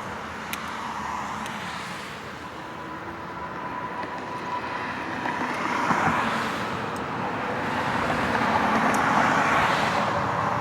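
Fat tyres of a RadRover 5 e-bike rolling over a wet, leaf-covered trail, a steady splattering noise that swells about six seconds in and again near the end. A faint steady whine runs under it in the first half.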